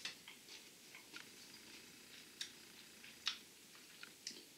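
Faint, irregular crunches and mouth clicks of someone chewing a crunchy pretzel bite, a few short clicks each second.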